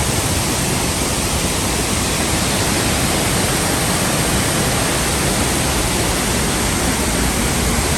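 Waterfall pouring, a loud, steady rush of water noise.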